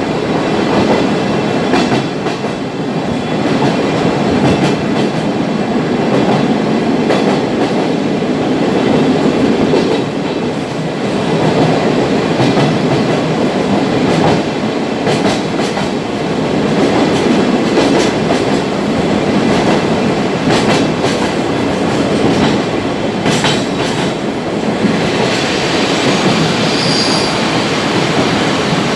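Sagano trolley train cars running along the track with a loud, steady rumble, wheels clacking over rail joints, and a brief high wheel squeal near the end.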